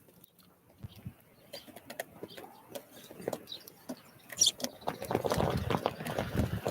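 Small birds at a feeder: scattered light taps and clicks, a brief high call about four and a half seconds in, then a louder rustle of fluttering wings from about five seconds on.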